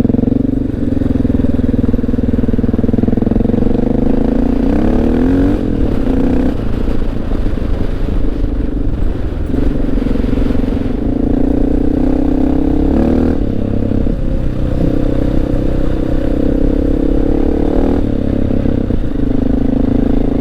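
Honda XR650L's single-cylinder four-stroke engine running under way. Its pitch climbs and then drops several times as the bike is ridden along a gravel road.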